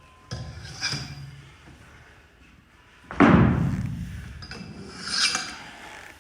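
Gym weights dropped on the floor: one loud thud about three seconds in that rings out for about a second, with smaller knocks and scrapes before and after it.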